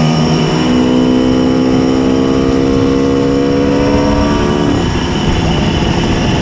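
Simson S51 moped with a tuned 90cc reed-valve two-stroke engine running hard under load, its exhaust note climbing slowly in pitch. About three-quarters through, the note drops and turns rough and ragged.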